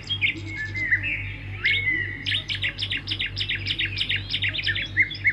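Swiftlets twittering: a rapid run of short, sharp chirps, several a second, each dropping in pitch, over a steady low hum.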